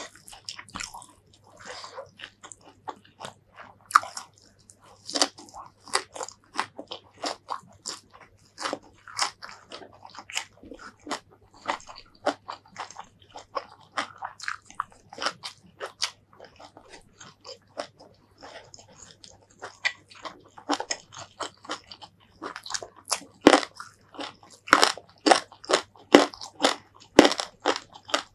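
Close-miked mouth sounds of chewing and crunching raw green vegetables and rice with chilli paste: a dense run of crisp crunches and wet chewing, louder from about three quarters of the way through.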